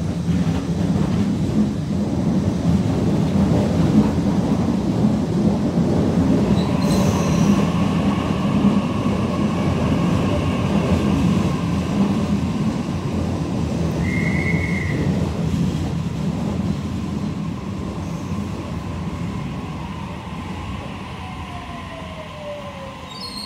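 Electric suburban train running along the platform, a loud steady rail noise that eases off through the second half. A short high squeal comes about two-thirds through, and a whine falls steadily in pitch near the end.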